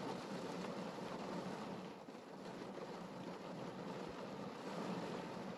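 Rain pattering on a car's roof and body, heard from inside the car as a steady, even hiss.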